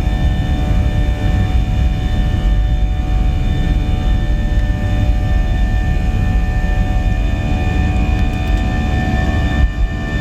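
Boeing 737-700's CFM56-7B turbofan engines at takeoff thrust, heard from inside the cabin: a steady, loud rumble with several steady engine tones over it.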